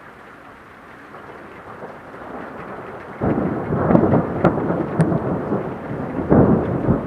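Thunder rolling in a thunderstorm over a steady hiss of rain: a loud rumbling peal sets in about three seconds in and swells twice before easing.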